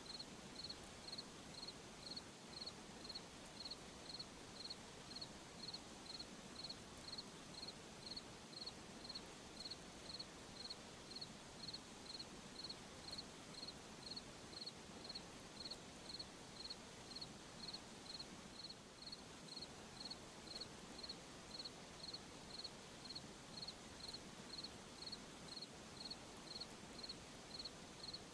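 A cricket chirping steadily at one high pitch, about three chirps every two seconds, over a faint background hiss.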